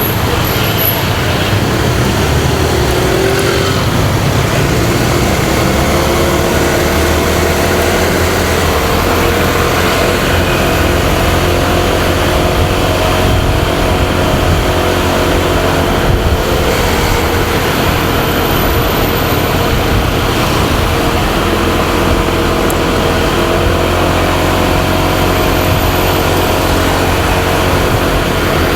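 Motorcycle engine running while riding, its pitch rising and falling gently with the throttle, under a steady rush of wind and road noise.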